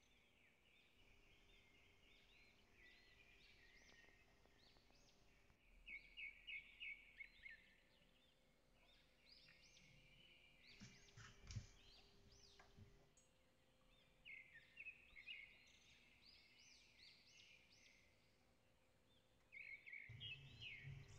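Birds chirping faintly, in short quick runs of notes that come in bursts every few seconds. A low rumble comes in near the end.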